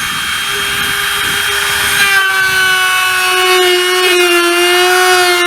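Electric wood router running at full speed while routing the edge of a board: a steady high motor whine whose pitch drops slightly about three seconds in as the bit takes the cut.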